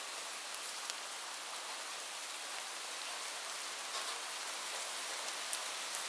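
Steady rain falling, a dense hiss with scattered individual drop ticks, two sharper ones near the end.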